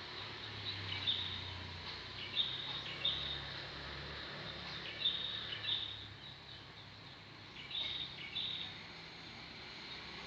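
Outdoor ambience with a small animal's call: a short two-part chirp, high-pitched, repeated about every two and a half seconds over a steady background hiss and a faint low hum.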